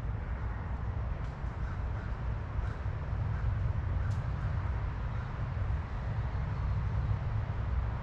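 Outdoor ambience: a steady low rumble, with faint short bird chirps about once a second.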